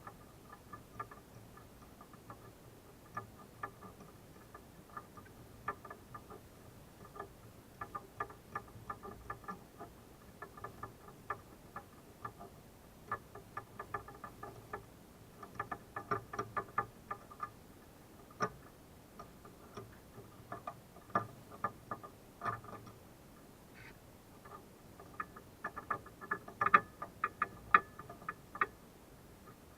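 Light metallic clicks and ticks in irregular bursts, each with a brief ring: hand tools (a spark plug socket and wrench) being worked on the spark plug of a motorcycle engine. The clicks come thickest in several clusters, the loudest near the end.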